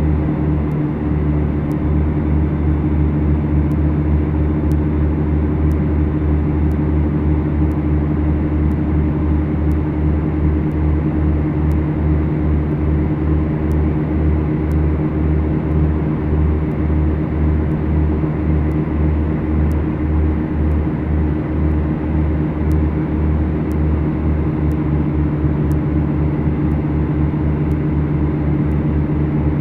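Beechcraft Duchess twin-engine light aircraft in flight: the steady drone of its two piston engines and propellers, with a low pulsing beat running through it.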